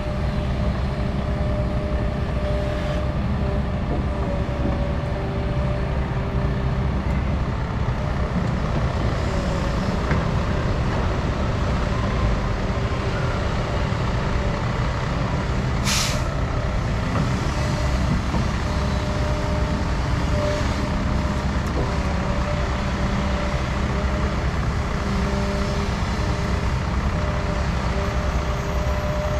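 Doosan 350 excavator's diesel engine running steadily under working load, with faint whining tones from the machine. About halfway through comes a single short, sharp hiss of air.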